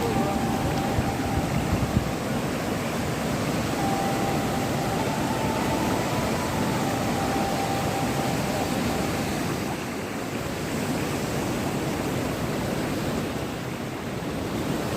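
Water of Remakri Falls rushing steadily over its rocky cascade.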